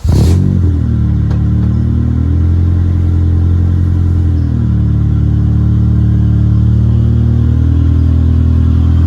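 A 2001 Acura Integra's B18C1 four-cylinder engine cranks and catches, flaring up, then idles steadily. Its idle rises a little about two seconds in and drops back after about four and a half seconds.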